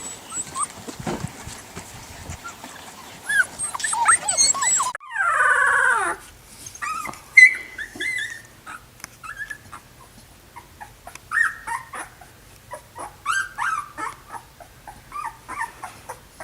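Young puppies whimpering and yipping: one long falling whine, then many short, high-pitched cries.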